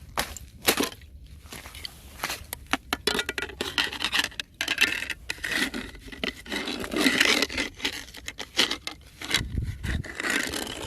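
Thin fresh ice cracking and crunching as it is broken up: a fast, uneven run of sharp cracks, snaps and gritty crunches, thickest in the middle.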